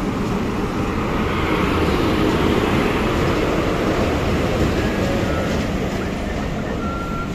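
Electric locomotive hauling a passenger train slowly into a station platform and running past, followed by the coaches rolling by on the rails. It is loudest about two to three seconds in as the locomotive passes, then eases off, with a few faint short squeals near the end.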